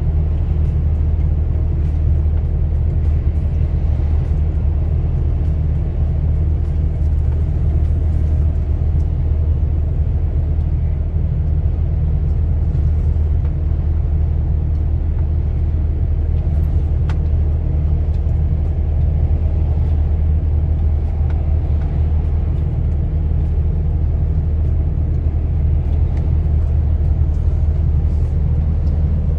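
Heavy truck's diesel engine and road noise heard from inside the cab while driving: a steady, unbroken low drone.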